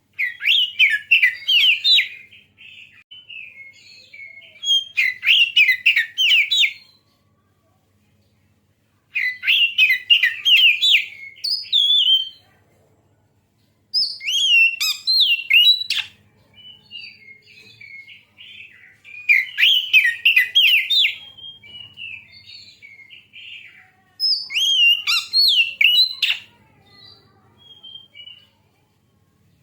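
Oriental magpie-robin (kacer) singing: six loud bursts of rapid, warbling whistled phrases, each about two seconds long and coming every four to five seconds, with softer scattered notes between.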